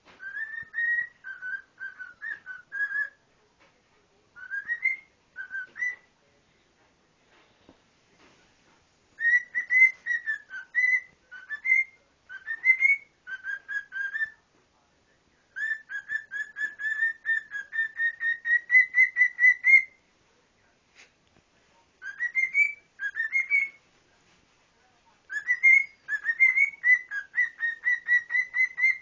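Pet cockatiel whistling a tune in short phrases of clear, warbling notes, with pauses between phrases. The longest phrase, about four seconds of repeated notes past the middle, climbs slowly in pitch.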